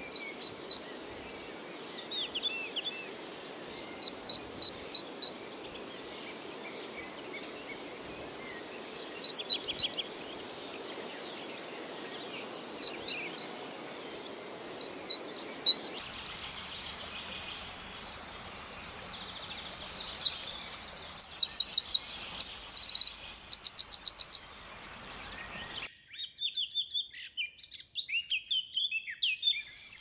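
Birdsong in three short stretches. First, groups of four or five short high notes every few seconds over a steady high-pitched hum. Then, a few seconds after the picture changes to a Eurasian wren, a loud, fast trilling wren song lasts about five seconds, followed by scattered chirps.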